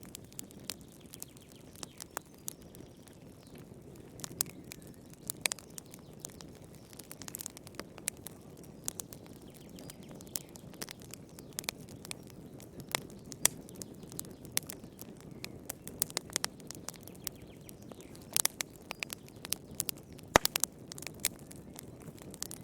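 Wood fire crackling in a fireplace: frequent sharp pops and snaps over a steady low rush, with a quick run of pops near the end.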